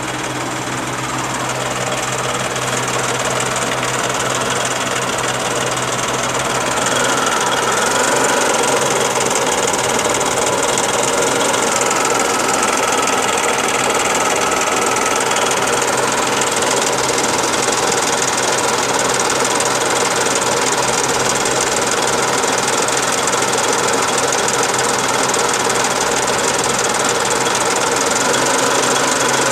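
A 1985 Daihatsu Charade's three-cylinder engine running steadily, making the strange noise the owner is showing. It grows a little louder over the first several seconds, then holds steady.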